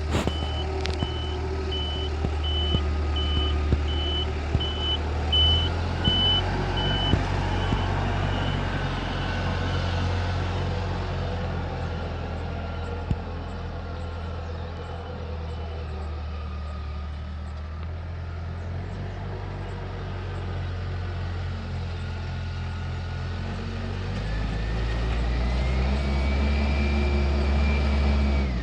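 Heavy construction machine's diesel engine running under load, with its reverse alarm beeping regularly for the first several seconds while it backs up. The engine revs up and grows louder near the end.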